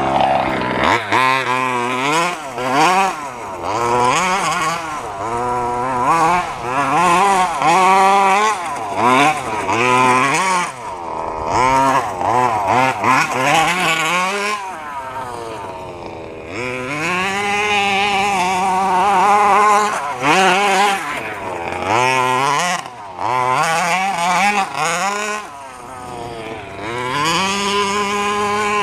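The FG 2WD gas RC stadium truck's small two-stroke engine being driven hard, revving up and dropping back over and over with the throttle, with a few short stretches held at steady revs.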